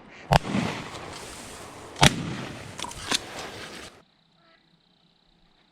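Shotgun shots fired at ducks flying over: two loud blasts about 1.7 seconds apart, then two fainter cracks, with the report rolling on until it cuts off suddenly about four seconds in.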